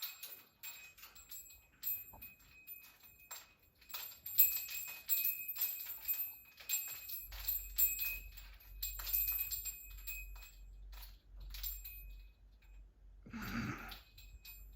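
Pet bird playing with its toys: irregular clicking and rattling knocks, many with a high metallic ringing, followed by a short voice-like call near the end.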